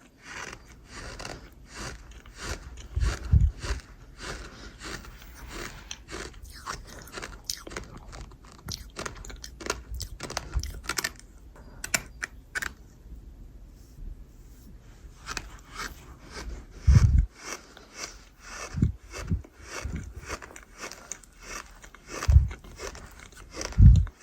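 Crunchy chewing and biting of gritty food: many quick crisp crunches, easing off briefly about halfway and then resuming, with a few heavier low thuds.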